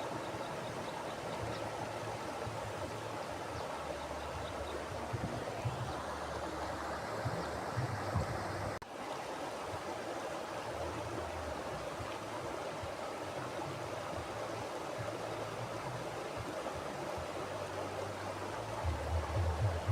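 Mountain river flowing: a steady rush of running water with a low rumble that comes and goes. There is a brief dip in the sound about nine seconds in.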